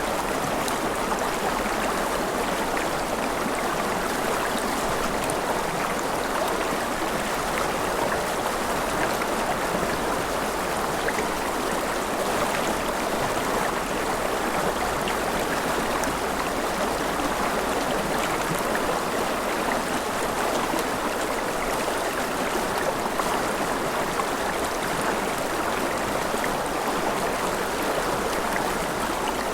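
Forest river flowing steadily over stones: a constant rushing babble with small splashes and trickles.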